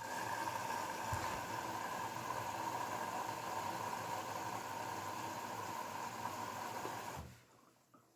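Grundig washing machine taking in water at the start of a 20 °C coloured-wash cycle: a steady hissing rush with a faint whine that starts suddenly and cuts off after about seven seconds.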